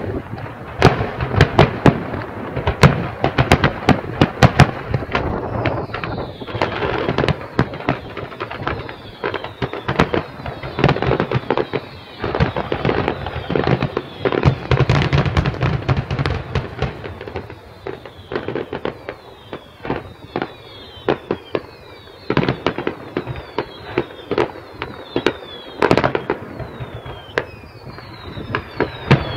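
Fireworks display: a rapid, dense barrage of bangs and crackling shell bursts. From about six seconds in, many short falling whistles sound among the bursts.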